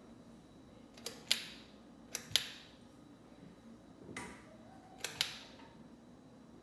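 Sharp mechanical clicks in pairs, four times, typical of a ceiling fan's pull-chain switch being pulled and let go, over a faint steady hum.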